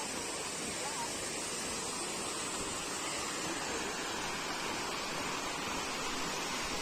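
Steady rush of flowing water, an even noise that holds level throughout.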